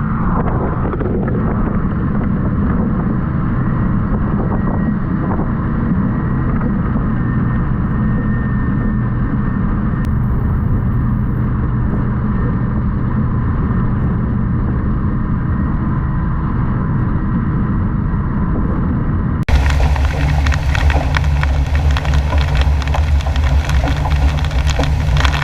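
Boat engine running steadily under way. About three quarters of the way through it cuts abruptly to a louder, harsher stretch with heavy wind buffeting and crackle on the microphone.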